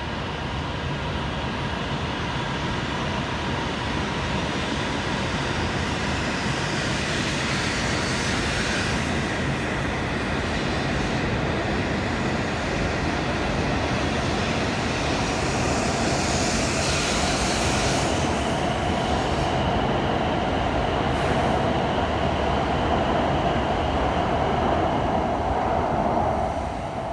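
E7-series Shinkansen train pulling out and gathering speed as its cars run past, a steady rail rumble with a faint hum that grows a little louder over time. The sound drops off near the end as the last car clears.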